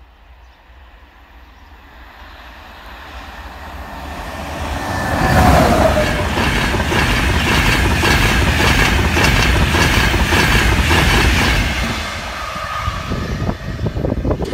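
A train passing at speed on a main line. It grows louder over the first few seconds and runs loud for about six seconds with a steady rapid clatter of wheels on the track, then fades near the end.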